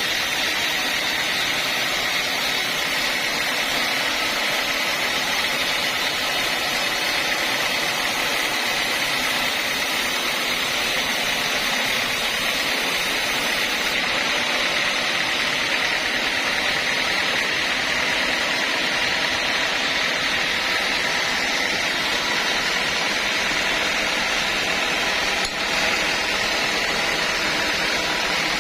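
Sawmill saw running steadily: an unbroken whine over a hiss, holding an even level, with one brief dip about twenty-five seconds in.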